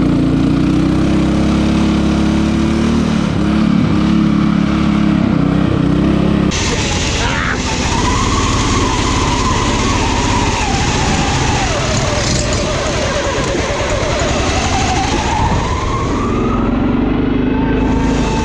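Riding lawn mower engines running hard. About six seconds in the sound changes abruptly, and then an engine note drops and climbs again as it revs down and back up.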